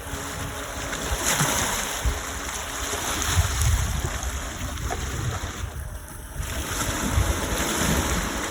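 Sea waves washing on a beach, with gusts of wind rumbling on the microphone.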